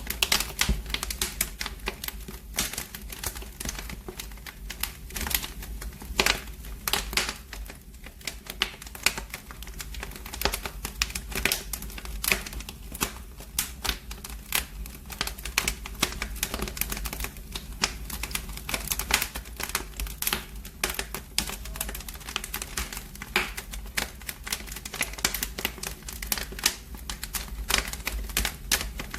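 Wood fire in a fireplace crackling: a constant stream of irregular pops and snaps over a steady low rumble.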